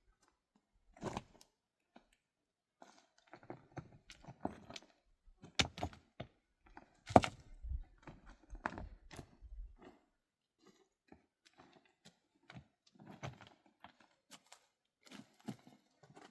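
Irregular knocks, crunches and scrapes of things being handled, with a cluster of louder hits past the middle and a sharp knock a little after seven seconds.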